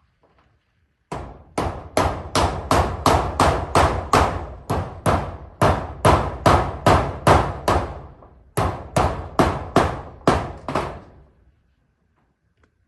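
A hammer driving nails: a fast, steady run of about thirty sharp blows, three to four a second, with a short pause about two-thirds of the way through.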